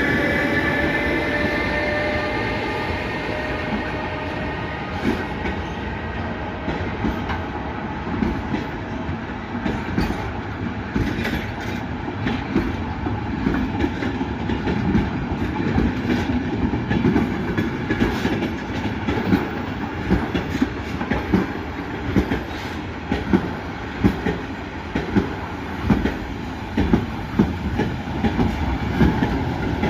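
A train moving through a station: a whine falling in pitch over the first few seconds, then a steady rumble with wheels knocking over rail joints and points, the knocks coming more regularly toward the end.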